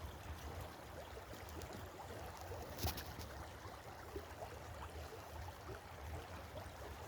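Faint steady background of a shallow creek with a low rumble, broken by a single sharp click about three seconds in.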